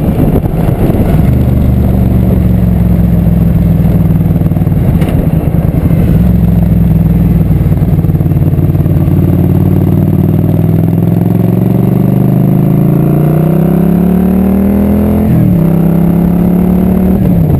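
Motorcycle engine running while riding, with wind noise on the microphone. In the last third the engine pitch climbs steadily as it accelerates, drops sharply at a gear change, then holds steady again.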